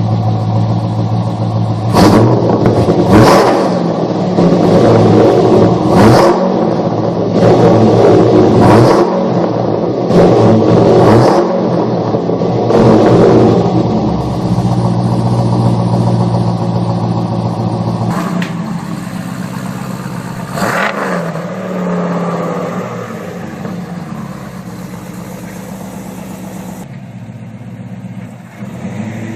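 A car engine idling and being revved repeatedly in short blips, each rev rising sharply and falling back; the revs grow fewer and softer after about twenty seconds.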